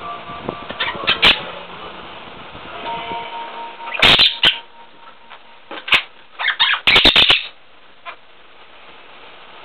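Quaker parrot (monk parakeet) making a few short, harsh outbursts: one about a second in, a louder one about four seconds in, and a quick cluster around seven seconds.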